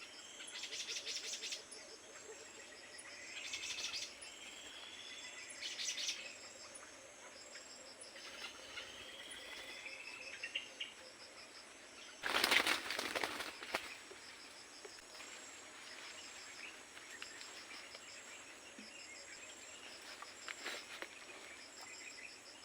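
Outdoor bird calls: short rising-and-falling whistles repeated several times over the first ten seconds, over a steady high insect drone. About twelve seconds in comes a loud rustling burst lasting about a second and a half, like wings flapping or brush being disturbed.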